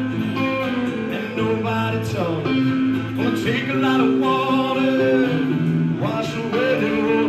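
Acoustic guitar music: an instrumental passage of a song performed live, with sustained notes that bend in pitch at times over a steady bass line.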